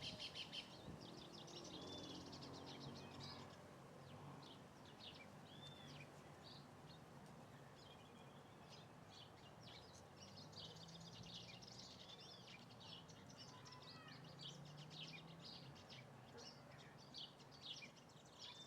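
Faint chorus of small birds chirping and trilling, with one short arched call repeating every few seconds over a low steady background hum.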